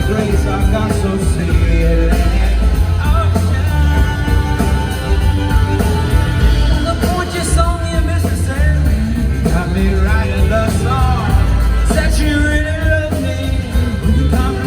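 Live band playing a loud instrumental stretch of a folk-rock song, with a strong bass and wavering melody lines over it.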